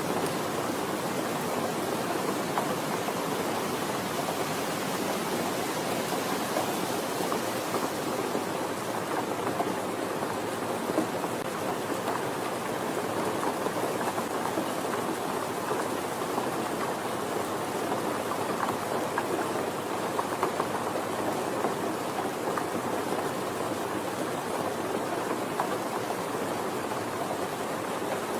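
Steady soft rain falling, an even hiss of many drops with fine scattered patter and no changes.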